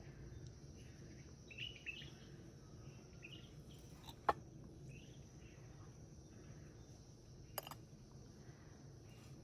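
Faint birds chirping now and then over a low steady background, with two sharp clicks, the louder about four seconds in and a second near the end.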